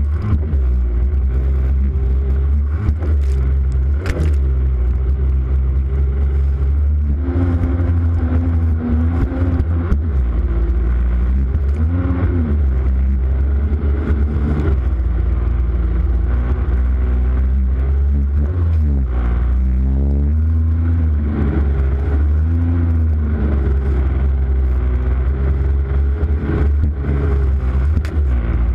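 Jet ski engine running, its pitch rising and falling again and again as the throttle changes, under a heavy, steady low rumble on a GoPro action camera's microphone.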